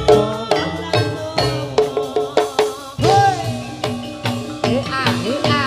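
Jathilan gamelan music: drums beating with struck metallophones ringing in a quick, steady pattern, and a few sliding tones about halfway through and near the end.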